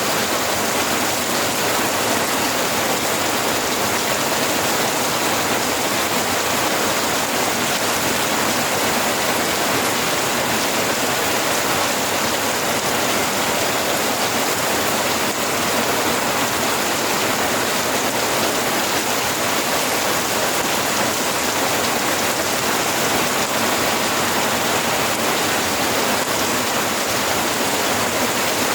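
Steady rain falling, a dense even hiss of drops with no let-up or single loud impacts.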